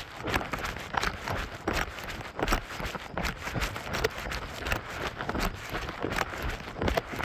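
Footsteps on a mountain path, a regular tread of about two steps a second.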